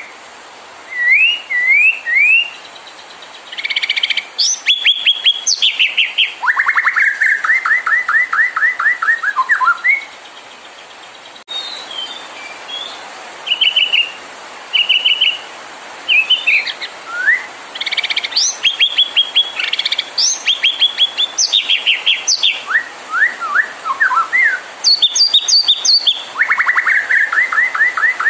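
White-rumped shama (murai batu) singing: phrases of whistled slurs alternate with rapid runs of repeated notes, separated by short pauses.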